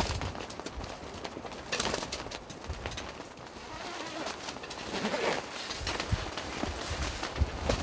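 Strong gusting wind buffeting the microphone, with low rumbles that rise and fall in gusts and a few small clicks.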